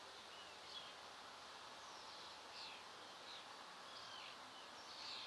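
Faint birdsong: short chirps and little whistled slurs from small birds, a few each second, over a quiet background.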